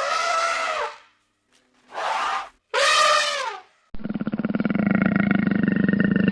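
Animal calls: three drawn-out pitched cries, each about a second long and falling in pitch at the end, then about four seconds in a switch to a continuous low, rapidly pulsing growl.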